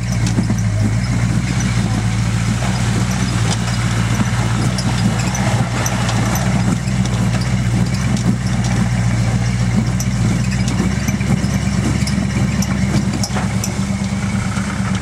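Off-road vehicle engine held at high revs on the rev limiter, a steady loud note with a rapid flutter; its tone changes about two-thirds of the way through.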